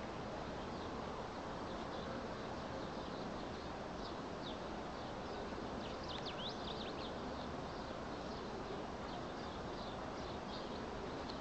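Small birds chirping: short, high calls scattered throughout, with a busier flurry of quick sweeping chirps around the middle, over a steady background noise.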